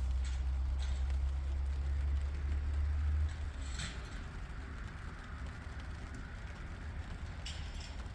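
A farm machine's engine running with a low rumble that drops off sharply about three seconds in, while a few short knocks and rustles sound.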